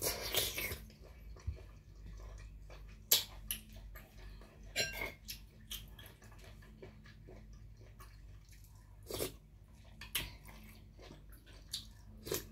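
Eating sounds: chewy blanched baby octopus being chewed, with scattered sharp clicks and clinks of a metal spoon on the plate, the sharpest about three seconds in. A faint steady low hum runs underneath.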